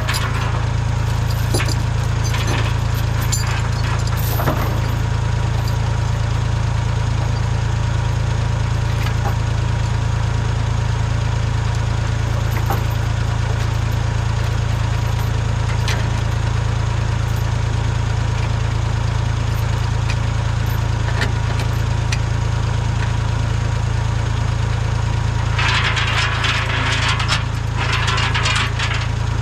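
Tractor engine running steadily, with scattered clanks and rattles, and a burst of louder rattling noise a few seconds before the end.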